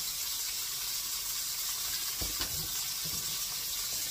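Hamburger patties sizzling steadily in a frying pan, with a soft knock or two a little past two seconds in.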